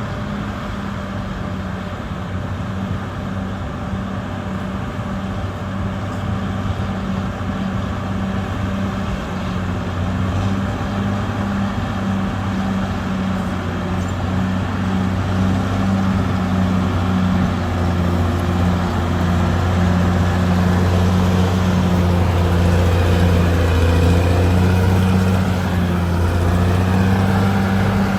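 Heavy earthmoving machine's diesel engine running steadily and gradually getting louder, with some wavering in pitch near the end as it works under changing load.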